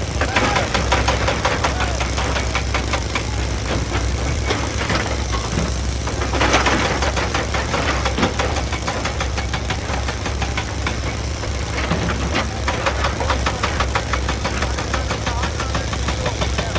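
Excavator's diesel engine running steadily under load, with a rapid run of knocking and rattling from the machine working rock.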